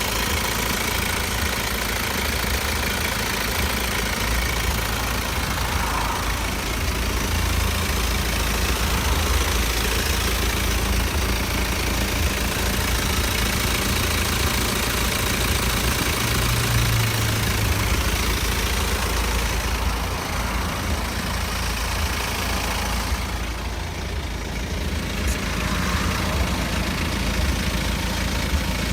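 BMW 320d's N47 four-cylinder diesel engine idling steadily.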